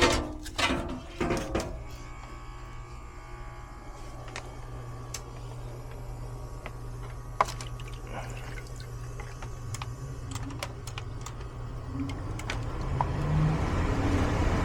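A few knocks as the furnace's sheet-metal access door goes back on, then a steady low hum with scattered small clicks. Near the end a rushing noise builds as the furnace blower starts up.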